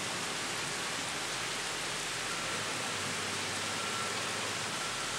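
Heavy rain falling steadily, an even hiss from the downpour.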